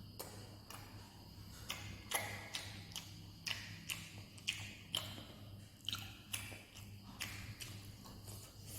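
Close-up chewing while eating chicken momos: wet mouth clicks and smacks about twice a second, over a faint steady low hum.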